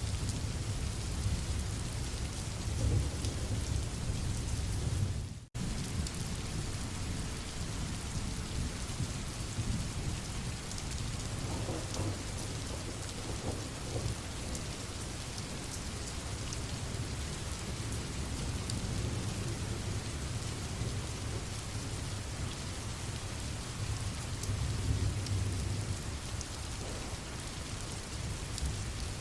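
Steady heavy rain with low rolls of thunder swelling and fading a few times. The sound cuts out for a split second about five seconds in.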